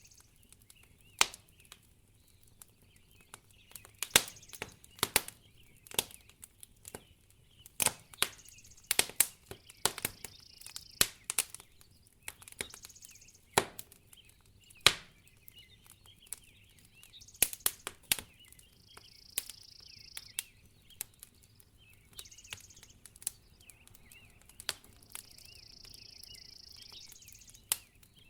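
Wood fire crackling in a fireplace: irregular sharp pops and snaps, some loud and some faint, with a few short stretches of soft hissing.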